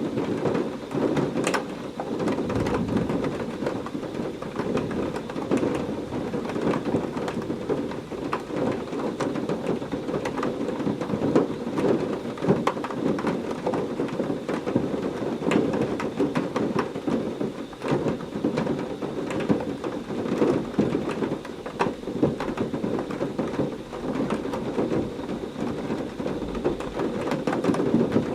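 Heavy rain falling steadily in a thunderstorm, a dense patter of close drops over a constant wash, with low thunder rumbling now and then.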